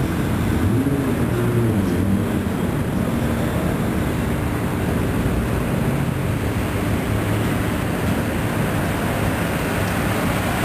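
Toyota Soarer engines running at low speed as the cars roll slowly along the pit lane. A steady low noise runs throughout, with a short rise and fall in engine note about a second in.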